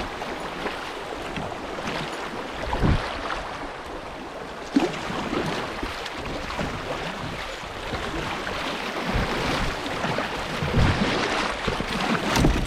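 Water rushing and splashing around a moving kayak, with several dull low thumps against the hull.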